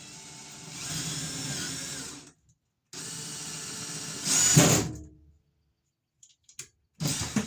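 Power drill boring a hole through the wall. It runs in two spells of about two seconds with a short pause between, the second ending in a louder surge, then a brief burst near the end.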